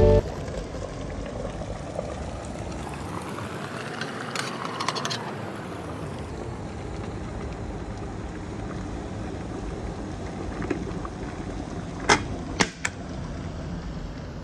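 Stainless steel electric kettle heating water, a steady rushing sound, with two sharp clicks about twelve seconds in.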